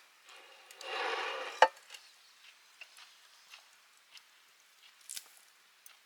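Wood campfire crackling with scattered sharp pops. About half a second in, a short hissing noise swells for about a second and ends in one loud snap.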